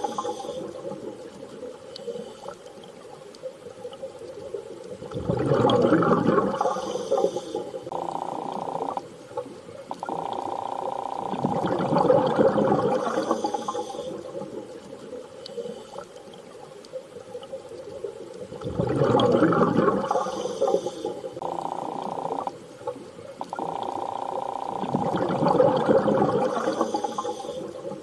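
Underwater ambience: slow swells of rushing, bubbling water about every six or seven seconds, with steady droning tones held between them, repeating as a loop.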